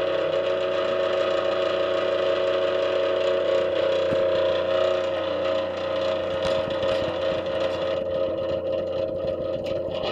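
Furnace blower fan with a newly fitted motor running with a steady mechanical drone; the owner blames the noise on the new motor. The higher part of the sound thins out over the last couple of seconds.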